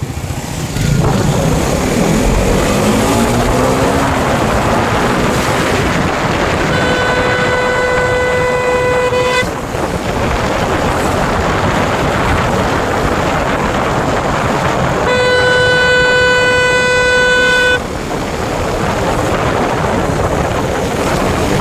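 Motorcycle engine running under way with wind noise, revving up about a second in. A vehicle horn sounds twice, each a steady single-pitch blast of about two and a half seconds.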